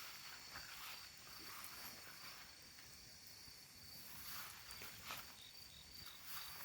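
Insects trilling in a faint, steady, high-pitched drone, with a few soft crackles and pops from a wood campfire.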